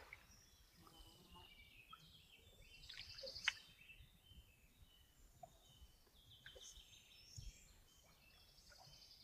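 Faint birds chirping and calling, with a brief soft click about three and a half seconds in.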